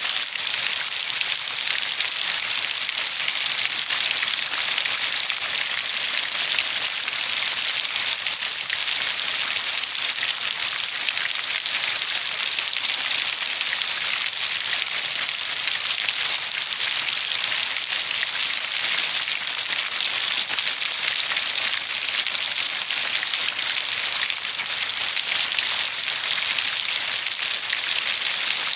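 Steady heavy rain falling, a dense, even hiss of countless drops with no change in intensity.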